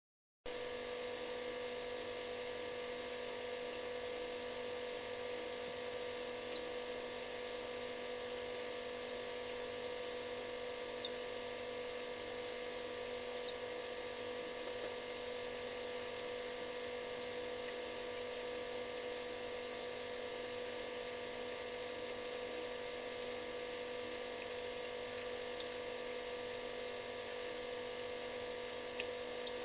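Refrigerator running: a steady electric hum with one strong mid-pitched tone and several fainter steady tones over a light hiss, broken only by a few faint ticks.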